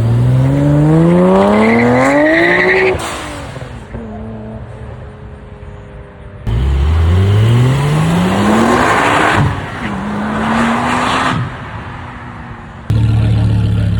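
Car engine revving hard, its pitch climbing steadily for about three seconds before falling away. A second rev starts suddenly and climbs, then holds and fades. Near the end a loud, steady, deep engine note cuts in.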